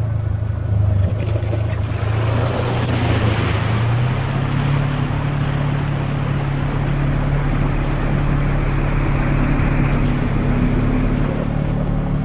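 Off-road vehicle's engine running steadily while driving along a trail, its note stepping up about four seconds in, over constant rushing wind and tyre noise. A brief hiss of higher noise rises about two seconds in.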